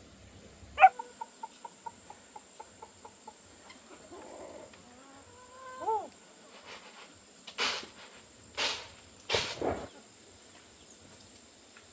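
Animal calls: a sharp call followed by a fast run of fading clucks, then a drawn-out arching call. A few short swishing rustles follow near the end.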